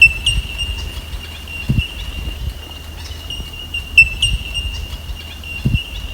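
Knocks and rubbing of a camera being handled and remounted close to the microphone, the sharpest right at the start and about four seconds in, over a steady high-pitched insect trill.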